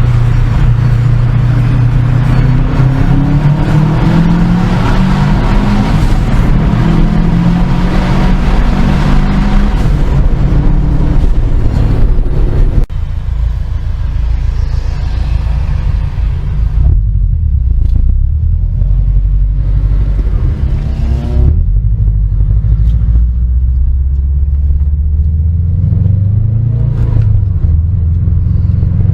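Car engine running loudly under acceleration, its note climbing in pitch; a little under halfway through the sound changes abruptly to a lower, steadier engine drone with a few short rises.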